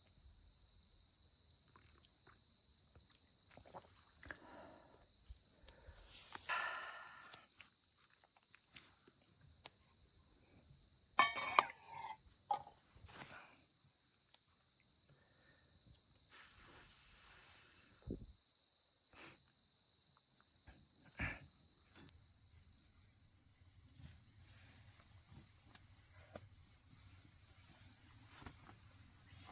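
Crickets chirring in a steady, high-pitched continuous chorus, with a couple of sharp clicks about halfway through.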